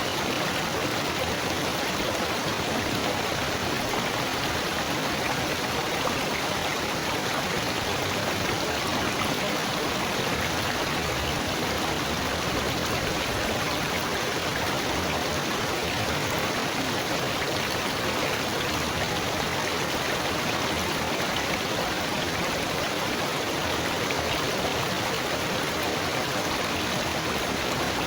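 Running water babbling steadily, with no change in level.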